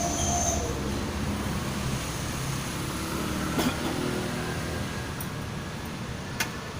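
A steady motor-vehicle engine hum, with two short sharp clicks about three and a half and six and a half seconds in.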